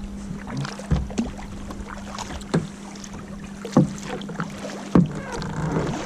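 Kayak paddles dipping and splashing through the water in regular strokes, roughly every second and a half, with water dripping and a steady low hum underneath.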